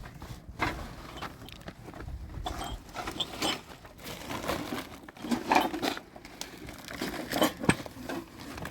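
Irregular rustling and light knocks, as of things being handled, with a couple of louder knocks about five and a half and seven and a half seconds in.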